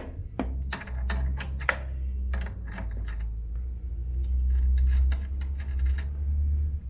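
Metal clicks and clinks of a 19 mm socket wrench working a nut on an elliptical's crank, irregular and several a second for the first few seconds, over a steady low hum.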